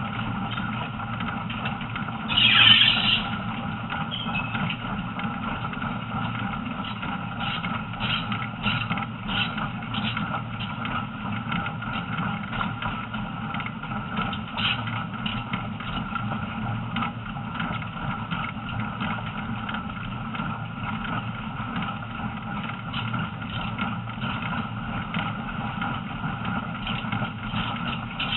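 Train running along forest track heard from aboard: a steady rumble of wheels on rail with a steady running tone and scattered clicks and knocks. A brief louder high-pitched burst comes about two and a half seconds in.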